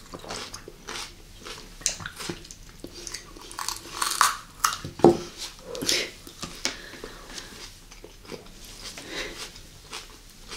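Close-miked crunching and chewing of a raw mini bell pepper: irregular wet, crisp crackles, loudest in a cluster of bites about four to six seconds in.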